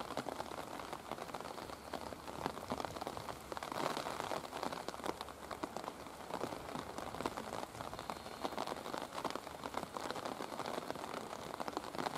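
Rain falling, heard as a steady, dense run of small raindrop ticks on a nearby surface.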